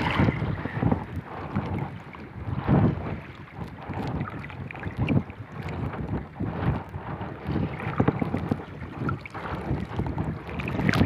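Strong wind buffeting the microphone in uneven gusts, over choppy sea water splashing and slapping around a small boat.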